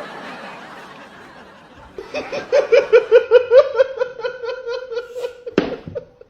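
A breathy hiss, then from about two seconds in a run of quick laughing pulses, about five a second on one steady pitch, with a sharp click near the end.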